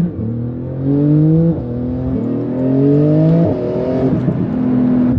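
Porsche 911 GT2 RS twin-turbo flat-six, breathing through a valved exhaust with high-flow catalytic converters, accelerating through the gears. Its pitch climbs and drops sharply at each of three upshifts, then settles to a steady cruise about four seconds in.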